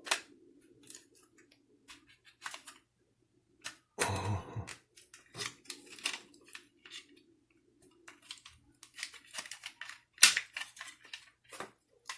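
Plastic clock spring and its covers being handled and snapped back together: scattered small clicks and taps, with a duller knock about four seconds in and a sharp click just after ten seconds.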